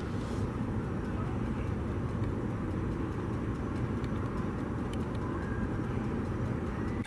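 Steady low rumble of vehicle or aircraft noise, even throughout with no distinct events.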